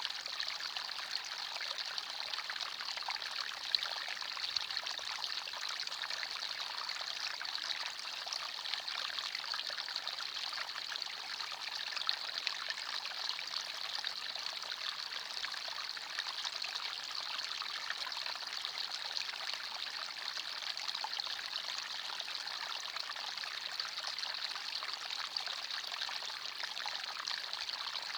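Small forest stream flowing steadily, water trickling and splashing over stones with a bright, even rush.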